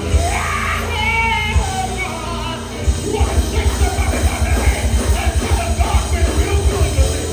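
Live gospel band playing an uptempo praise break, with fast, heavy drumming that picks up about three seconds in, and voices shouting and singing over the music.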